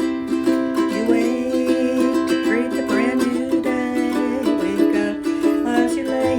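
Ukulele strummed in a steady rhythm, ringing chords, with a melody line that slides in pitch over them from about a second in.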